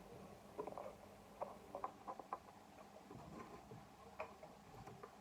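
Faint, irregular light taps and clicks of food and utensils being handled at a kitchen counter, with a cluster of them near the middle.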